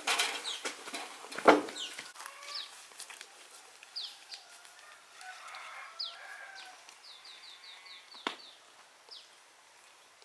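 Farmyard chickens clucking, with many short, high, falling chirps from chicks or small birds, including a quick run of them a few seconds before the end. Two loud rustling knocks come in the first two seconds and a sharp click near the end.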